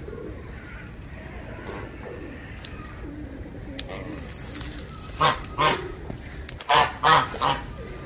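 Bird calls, short and harsh: two about five seconds in, then three more in quick succession near the end.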